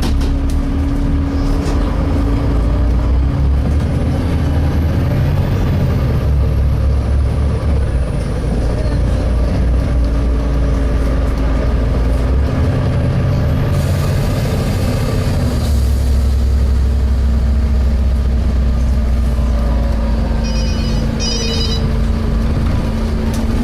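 Volvo B7TL double-decker bus heard from inside while driving, its six-cylinder diesel running and the low engine note stepping down and up a few times. A steady hum runs underneath, and there is a short hiss about midway. Near the end comes a brief bell-like ringing.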